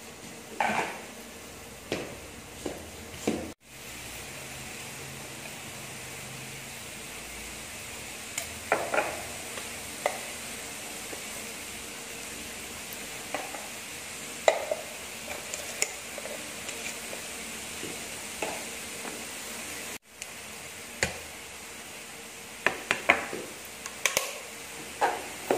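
Squid stir-frying in a steel wok with a steady sizzle, while metal utensils scrape and clink against the wok at irregular moments.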